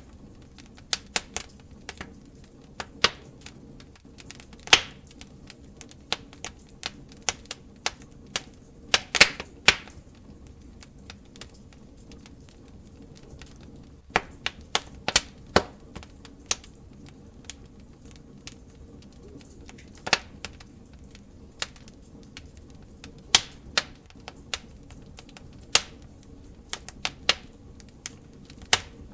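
Open wood fire crackling: irregular sharp pops and snaps, some in quick clusters, over a low steady hiss.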